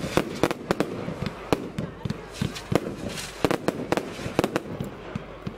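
Consumer firework battery firing: a quick irregular string of sharp bangs and pops from bursting shells, several a second, with a hissing stretch about halfway through.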